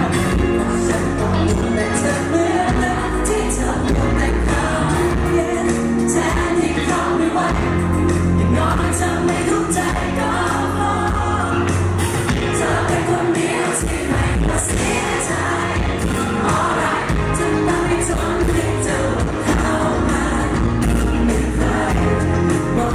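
Live pop band performance: a singer's vocal over a full band with drums and bass keeping a steady beat.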